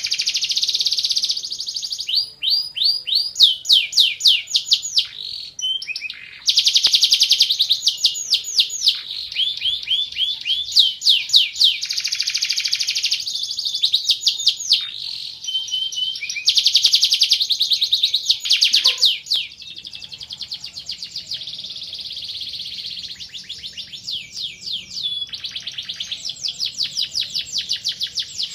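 Domestic canary singing a long, unbroken song of fast trills and rolls. Each phrase is a run of rapid repeated high notes, and the song switches to a new phrase every second or two.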